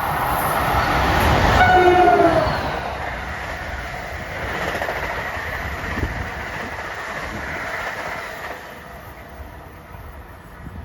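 A train passes at speed with a rush of wheel and air noise; about one and a half seconds in its horn sounds one short blast whose pitch drops as it goes by, then the rumble fades away.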